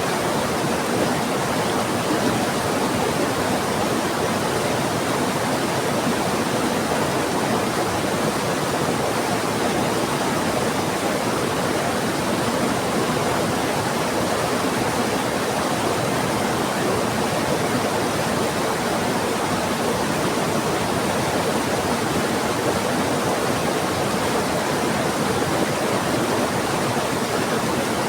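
Rushing river water and heavy rain: a steady, even wash of water noise with no breaks or sudden sounds.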